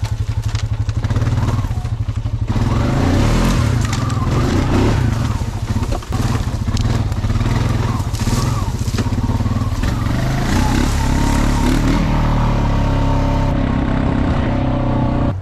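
Honda Rancher four-wheeler's engine running steadily under load while dragging logs, its pitch shifting about ten seconds in, with scraping noise over it.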